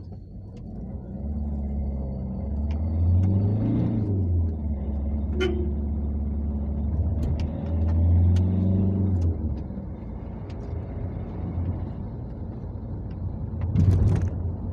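Ford Connect's turbodiesel engine heard from inside the cab, pulling hard in two acceleration runs that rise in pitch. It eases off about two-thirds of the way through, with a few light knocks and clicks from the cab.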